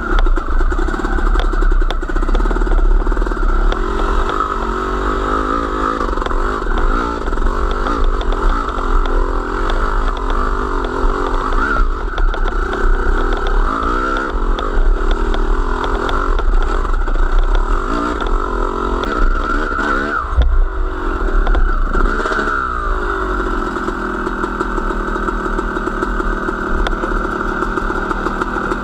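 Small motor vehicle's engine running steadily while being ridden, under a constant low rumble; about two-thirds of the way through the engine pitch falls and rises again as it is revved.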